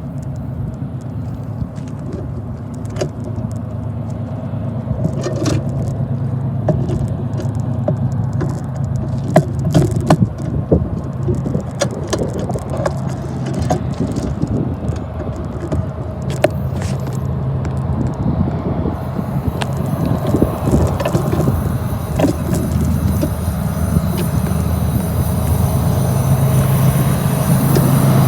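Diesel locomotives of a freight train drawing steadily closer, their low engine drone growing louder throughout, with scattered clicks and rattles along the way.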